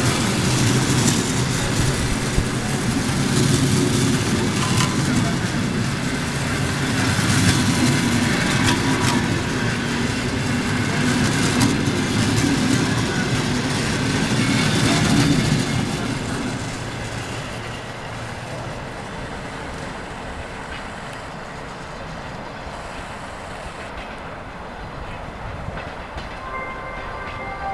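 Passenger train pulling out behind an EP2K electric locomotive, its carriages rolling past with wheels knocking over the rail joints. The noise fades about sixteen seconds in as the train moves off.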